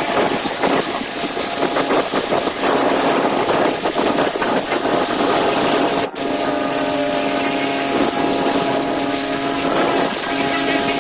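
A 3200 psi gas pressure washer running steadily, its small engine humming under the loud hiss of the rotary turbo nozzle's jet spraying onto a hide.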